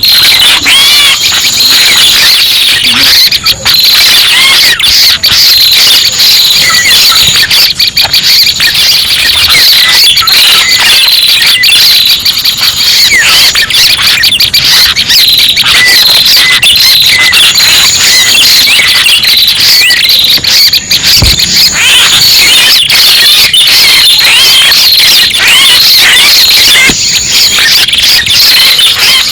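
Bird-lure recording of prenjak pala merah calls: loud, dense high-pitched chirping and trilling without pause, played to draw the bird in. It starts abruptly.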